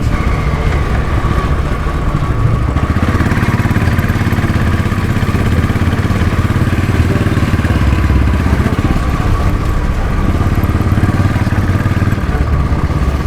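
Royal Enfield Bullet's single-cylinder engine running steadily under way, heard from the rider's position with wind rush over it.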